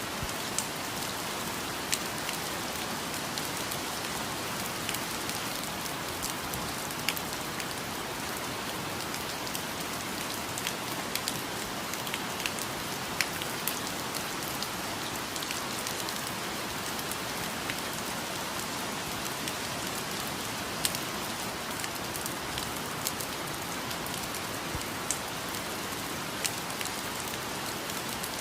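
Steady rain falling, a dense even hiss with scattered louder individual drops striking close by.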